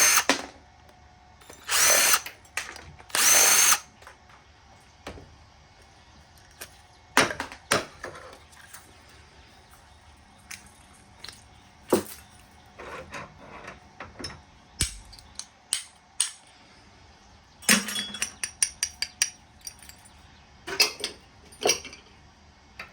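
Power drill running in short bursts to undo fittings on scrap furnace burners, three times in the first few seconds and again near the end, with scattered metal clanks and a quick run of clicks from the parts being handled in between.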